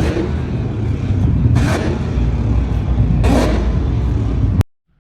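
Car engine running loud and hard, with three short bursts of noise about a second and a half apart. It cuts off abruptly near the end.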